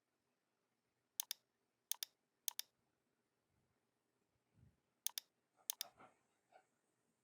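Computer mouse clicked five times, each a quick double snap of button press and release, with a couple of faint low thumps between the clicks.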